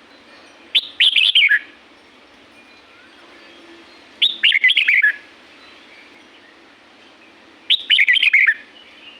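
Red-whiskered bulbul singing: three short, bright phrases about every three and a half seconds, each a quick run of notes sliding down in pitch.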